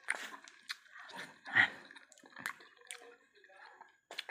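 Close-up wet chewing and lip-smacking on a mouthful of fresh lumpia, in irregular short smacks with one louder one about a second and a half in, along with light clicks of a plastic fork on a foam tray.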